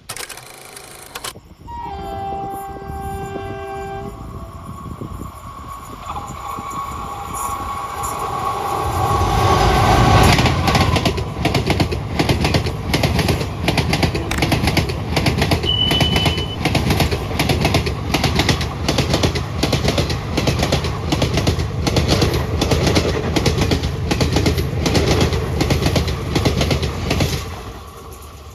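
An Indian Railways train sounds its horn twice as it approaches at speed. It then passes close by for about seventeen seconds with a steady, rapid clickety-clack of wheels over rail joints, which fades away near the end.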